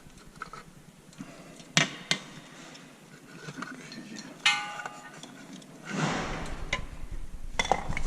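Hands working on a vacuum pump's wiring and small parts: two sharp clicks, a short ringing note about halfway, then steady rustling and handling noise.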